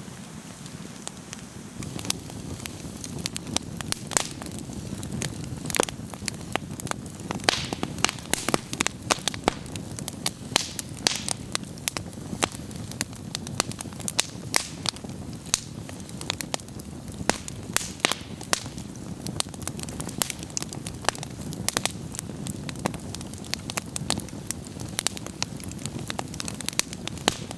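Wood campfire crackling, with frequent sharp pops over a steady low rush.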